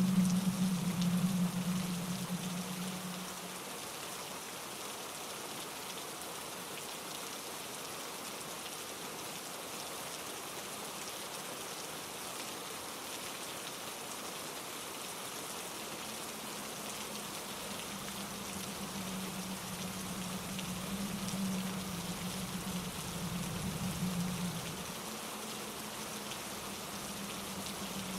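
Steady rain falling, an even hiss of drops without a break. A low rumble fades out within the first few seconds and swells back in during the second half.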